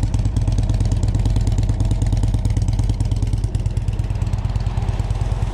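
A 2013 Harley-Davidson Street Glide's Twin Cam 103 V-twin idling steadily through Rinehart slip-on mufflers, with a deep, throaty exhaust note.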